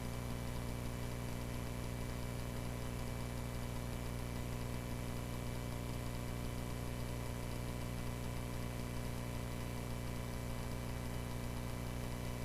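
Cessna 140A's single piston engine and propeller running steadily in flight, heard as an even drone in the cockpit.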